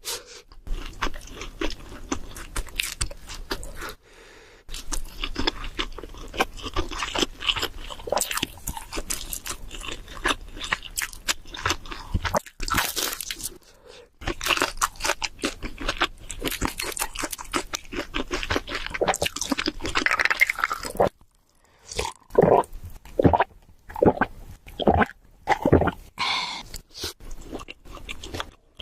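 Close-miked chewing and crunching of cheese seafood pizza: a dense crackle of bites and chews with a few brief pauses. Near the end the sounds thin out into separate, slower chewing strokes.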